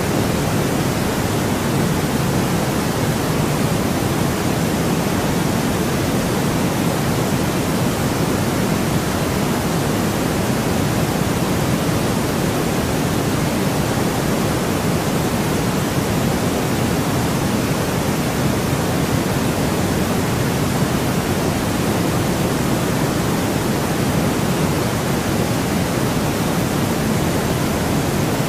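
Steady, unchanging white noise: an even hiss with no events in it, fuller in the low end than the top.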